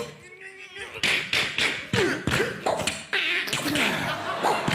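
A man making sound effects with his mouth, beatbox-style: a quick run of clicks and pops mixed with short squeaky vocal noises that slide up and down in pitch.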